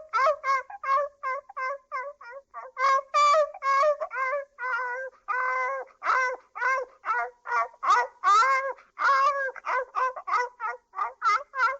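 A small dog yipping in a fast run of short, high calls, about three or four a second, some of them wavering in pitch.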